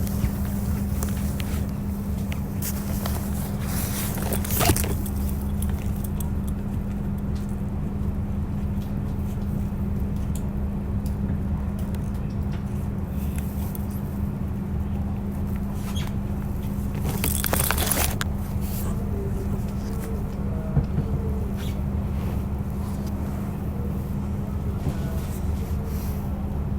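Diesel railcar running on the line, heard from on board: a steady low engine drone with a constant hum and rail noise. Brief louder rattling bursts come about four seconds in and again around seventeen seconds in.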